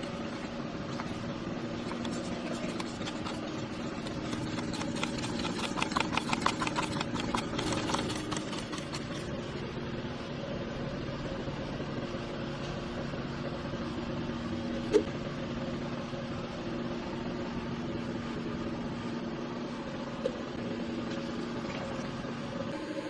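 A machine running steadily with a constant hum, with a rapid rattling for a few seconds about a quarter of the way in and two sharp clicks later on.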